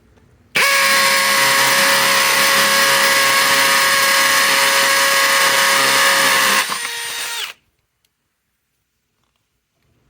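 Cordless hammer drill running at a steady full speed with a constant whine for about six seconds. It then runs quieter for about a second before stopping.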